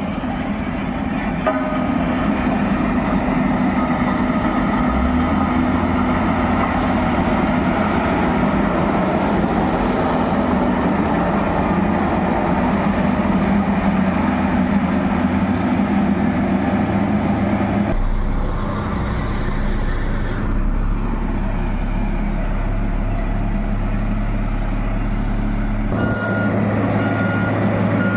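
Heavy truck or construction-vehicle engine running steadily. Near the end a reversing alarm starts, a regular high beep.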